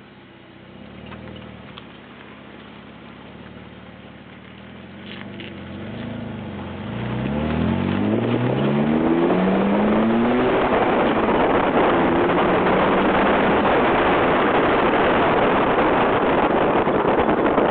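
BMW E46 325's straight-six engine revving up as the car accelerates away, its note rising in pitch over a few seconds. Loud steady road and wind noise then takes over and holds as the car travels at speed.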